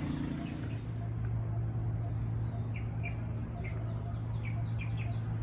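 Birds chirping in a fast series of short falling notes, starting about halfway through, over a steady low hum.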